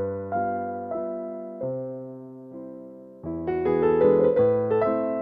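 Soft piano music: slow, sustained chords that fade away, then a busier run of notes comes in about three seconds in.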